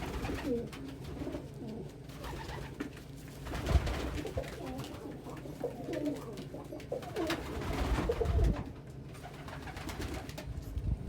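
Domestic pigeons cooing repeatedly in a small loft, several wavering low coos overlapping, with a couple of louder rustling bursts about four and eight seconds in.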